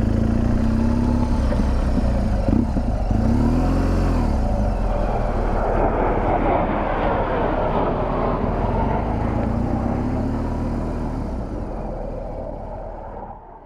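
BMW R1200GS boxer-twin motorcycle engine running, its pitch rising and falling a few times, fading out at the very end.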